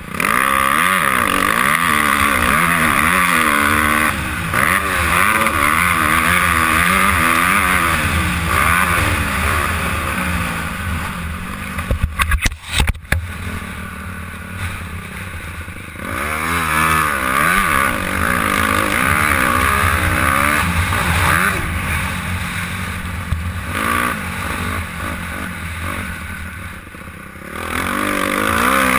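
Honda CRF250R's single-cylinder four-stroke engine revving hard up and down, heard from a helmet camera with heavy wind rush. About twelve seconds in there is a cluster of sharp knocks and the engine note falls away, then the revs build up again; the engine drops off once more near the end before picking back up.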